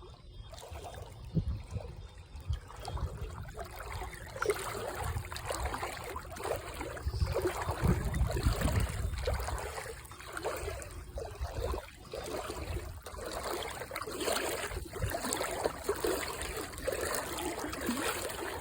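Water trickling and splashing unevenly, over an uneven low rumble.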